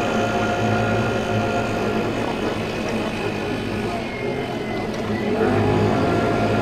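A 50cc scooter riding along at a steady pace: its small engine running evenly, with road and traffic noise around it.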